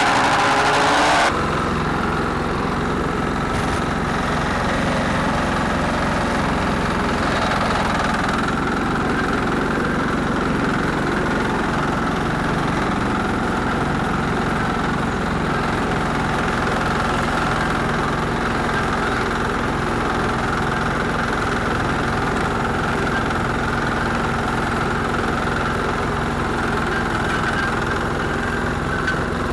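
Garden tractor engine idling steadily. In the first second a louder engine with shifting pitch is heard, cutting off abruptly.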